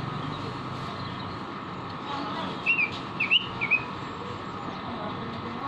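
Pekin robin (red-billed leiothrix) giving three short whistled notes in quick succession about midway, over steady background noise.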